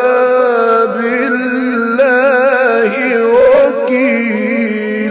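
A man's voice in melodic Quran recitation (tilawa), drawing out long ornamented notes with wavering pitch.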